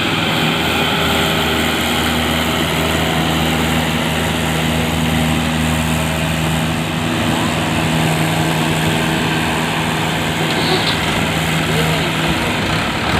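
Diesel engine running steadily at one even speed, a constant low drone with no revving.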